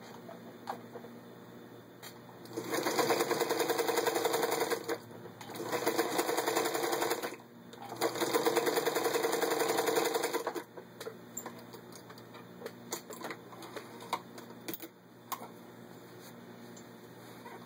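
1954 Singer 221-1 Featherweight sewing machine stitching at speed through six layers of denim, in three runs of two to three seconds with short pauses between. After that come quieter scattered clicks.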